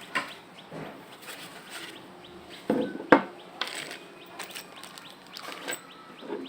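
Scattered knocks and rustles of an object being handled, with a sharp knock about three seconds in, over faint bird calls in the background.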